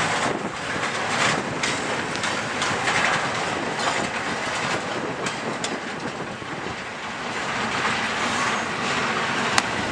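Freight train cars rolling past, their wheels clattering over the rails with scattered sharp clicks, one sharp click near the end.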